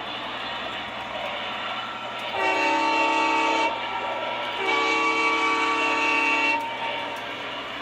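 O gauge model diesel locomotive's sound-system horn sounding twice, a short blast and then a longer one, over the steady running noise of the model train on the track.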